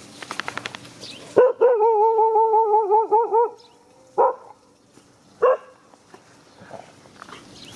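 Dogs in an aggressive encounter: a brief rapid rattle, then a sharp bark running into a long, high, wavering cry of about two seconds, followed by two single barks a little over a second apart.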